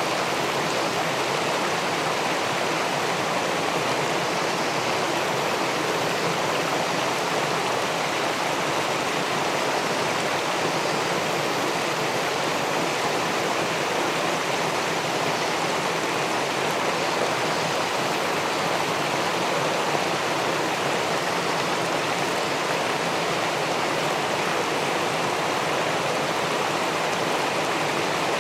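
Steady rushing of river water spilling over a small weir into the pool below, an even wash with no separate splashes.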